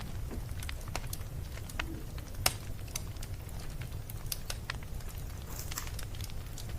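Wood fire crackling: irregular sharp pops and snaps over a low steady rumble, with one louder pop about two and a half seconds in.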